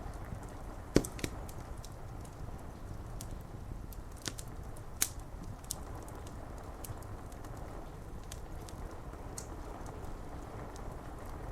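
Wood fire crackling, with scattered sharp pops, the loudest about a second in, over a steady hiss of rain on window glass.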